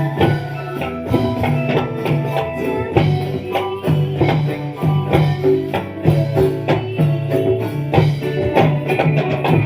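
Live dolalak accompaniment music: an ensemble playing a steady rhythm of drum strikes and tambourine-like jingles under held melodic notes.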